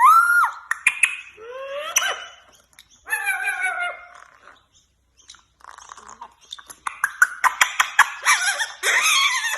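Pet parrot whistling and calling: gliding whistles and warbling calls in the first half, then a run of rapid, clicking, harsh chatter in the second half.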